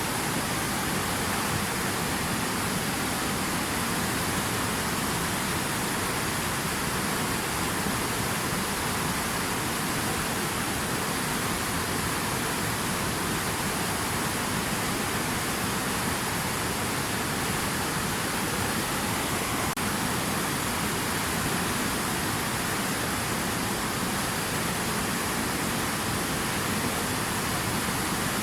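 Steady, even rushing of water, with no breaks or separate splashes.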